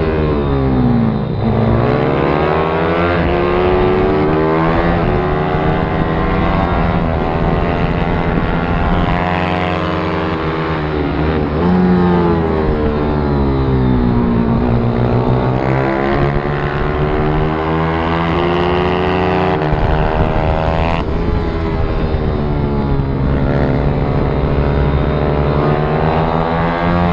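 Pit bike engines running hard, their pitch rising and falling again and again as the bikes accelerate and slow, with more than one engine heard at once at times.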